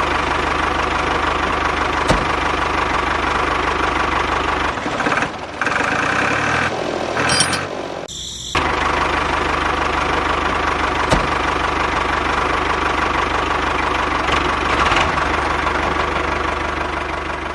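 Tractor engine idling steadily with a knocking beat. The sound drops out briefly about five seconds in and again about eight seconds in.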